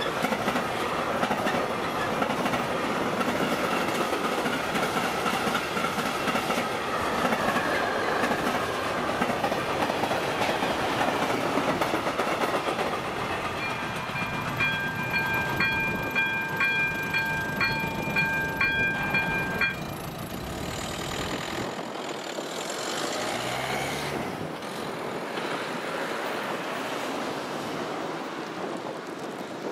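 A train passes over the level crossing, its wheels clattering over the rail joints. As the train noise fades, the crossing's electronic warning bell rings in a steady repeating pattern for several seconds and then cuts off suddenly, a sign that the crossing has cleared.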